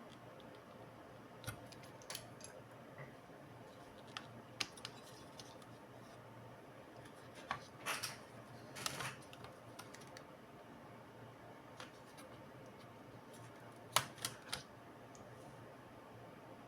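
Scattered light clicks and taps of small tools and parts being handled on a laptop under repair, with a short scraping flurry about halfway through and three sharp clicks near the end, over a faint steady hiss.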